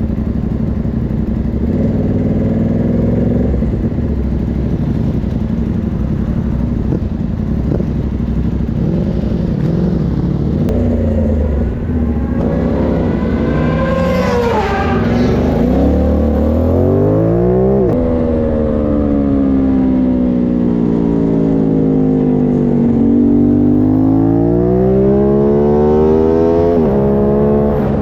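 Aprilia Tuono 660 parallel-twin motorcycle engine at speed on track. It runs fairly steadily at first, then revs up hard about halfway through and drops sharply at a gear change. It falls away as the bike slows, then climbs again to another sharp shift near the end.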